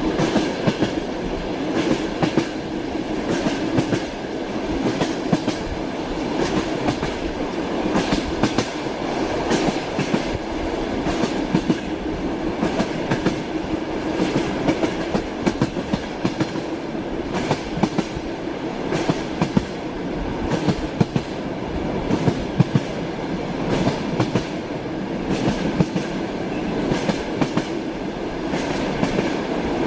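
Train wheels running on the rails, with a steady rumble and a stream of irregular clacks and knocks over the rail joints.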